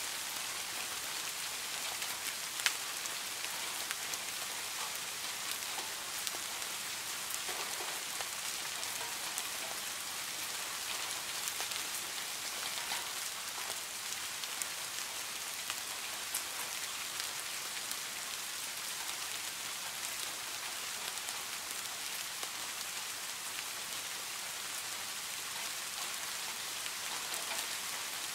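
Steady rain falling onto a garden pond's water surface: a dense, even patter of drops with scattered louder single drops, one sharper drop about three seconds in.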